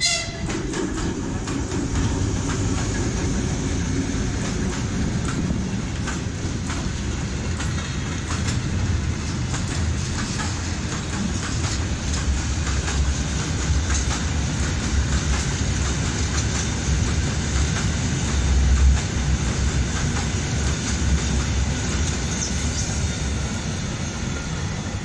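Freight train of hopper wagons rolling past close by, its wheels clattering over the rail joints in a continuous run of thuds and clacks.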